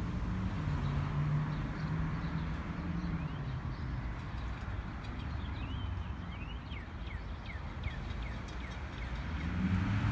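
A vehicle's low engine hum over steady low traffic rumble, fading after the first few seconds. Then a small bird chirps repeatedly with quick, falling notes through most of the rest.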